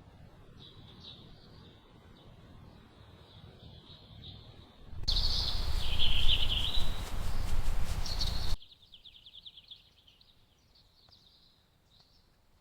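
Birds chirping faintly, with a loud rushing noise that comes in about five seconds in, lasts about three and a half seconds and cuts off suddenly.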